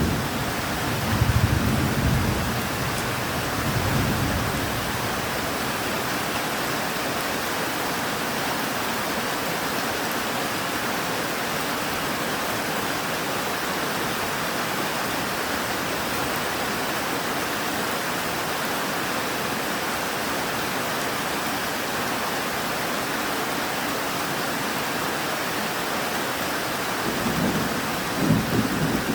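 Steady rain falling, with low rolls of thunder about a second in, again around four seconds in, and near the end.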